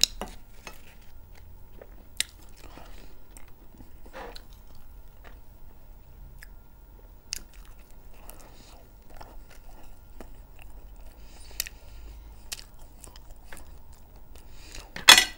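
Close-miked chewing and mouth sounds of a person eating, with scattered small clicks and one brief, much louder noise near the end.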